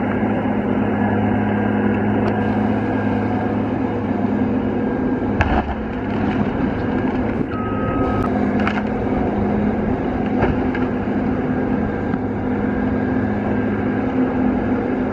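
Diesel engine of a Cat 552 feller buncher running steadily under work, with a sharp knock about five and a half seconds in and a short high whine near eight seconds.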